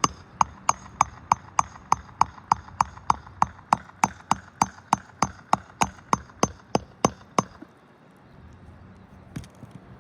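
Rapid, even hammer taps, about three a second, each with a short metallic ring, stopping about seven seconds in. The taps come during work to free a damaged roof shingle.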